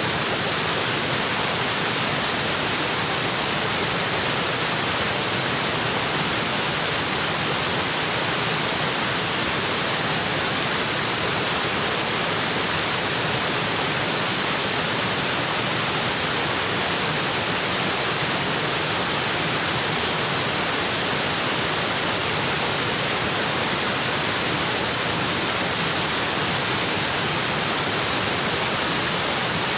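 Waterfall in a tropical forest: water falling onto rocks in a steady, unbroken rush.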